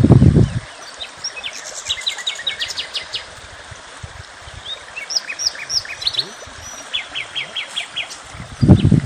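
Small birds chirping and calling: rapid series of short high chirps and a few short upswept whistled notes. A loud low rumble sounds in the first moment and again near the end.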